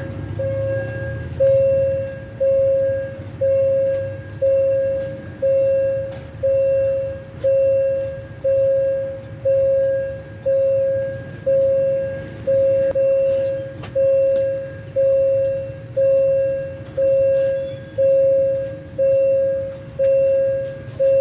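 Railway warning bell ringing at an even pace, about one stroke a second, each stroke dying away before the next, signalling an approaching train. A low rumble underlies the first second or so.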